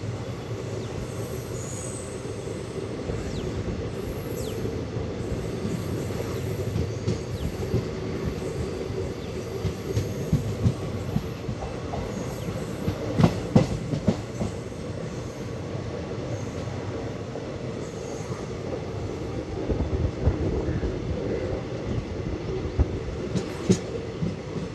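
Express train coaches running along the track, heard from on board: a steady rumble, with clusters of wheel clacks and knocks about halfway through and again near the end.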